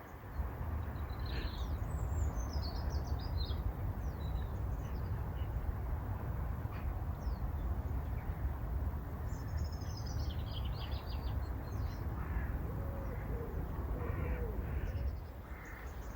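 Wild birds calling over a steady low rumble: high twittering songbird calls twice, and lower calls from a larger bird near the end.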